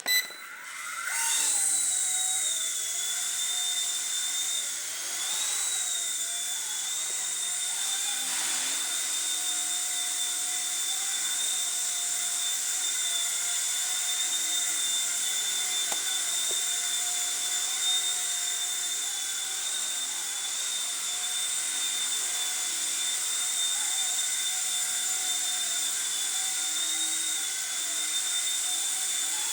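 Small fixed-pitch RC helicopter (ERA C129 V2) with coreless electric motors, spooling up in the first second or two and then running with a steady high whine, its pitch wavering slightly a few times as motor speed changes.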